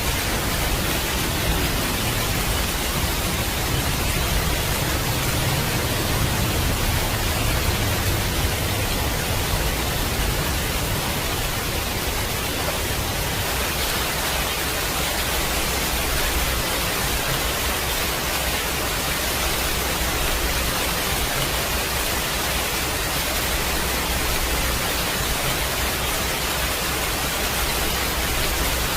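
Steady heavy rain hiss. A low rumble of thunder carries on and dies away over roughly the first ten seconds.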